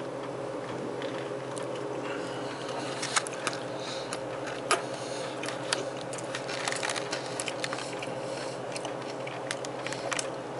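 Biting into and chewing a chili dog with jalapeño and banana pepper slices in a soft bun: scattered soft, wet mouth clicks over a steady background hum.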